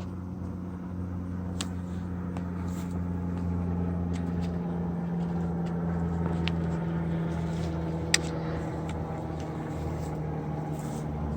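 A steady mechanical hum from a running machine, with a few light metallic clicks.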